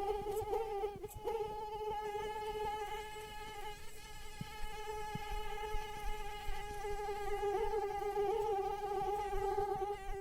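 Female mosquito in flight, its wingbeats making a steady high-pitched whine that wavers slightly in pitch.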